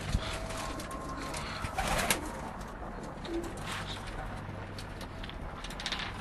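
Domestic pigeons cooing, with a sharp knock near the start and a louder rustling noise about two seconds in.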